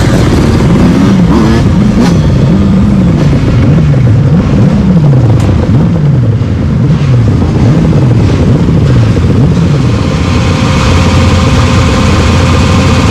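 Motorcycle engine revved up and down over and over, about once a second, then held at a steady pitch for the last few seconds.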